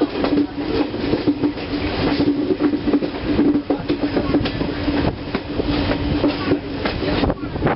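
Passenger express train rolling through a curve, its wheels clattering irregularly over the rail joints, with a steady low hum under the clatter that fades and returns.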